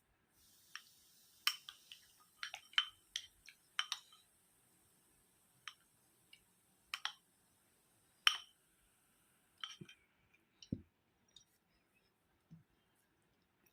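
Eating at a table: scattered light clicks and clinks of dishes and utensils, about fifteen in all, with a couple of soft low thuds near the end. A faint steady hiss sits under the first ten seconds.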